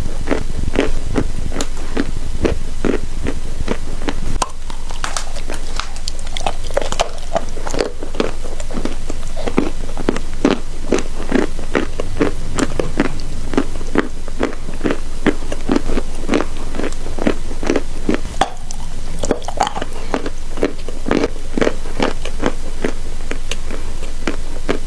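A person biting and chewing chalk close to the microphone: a steady run of crisp crunches, about three a second.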